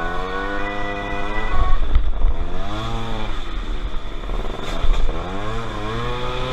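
Motorcycle engine revving up and dropping back again and again, the pitch climbing and falling about every one and a half to two seconds.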